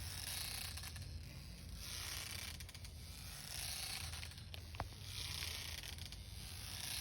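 A rocking swing seat creaking and scraping at its metal hangers as it moves back and forth. The scrape swells and fades in a steady rhythm, about once every couple of seconds.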